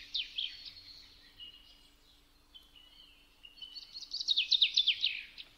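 A small songbird singing in quick runs of high, falling chirps: a short run at the start and a louder trill about four seconds in. A faint steady hum lies underneath.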